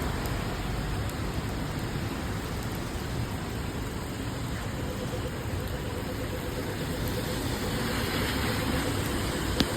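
Steady hiss of rain and wet city street noise, with a vehicle engine idling nearby as a faint steady hum from about halfway in. A single sharp click near the end.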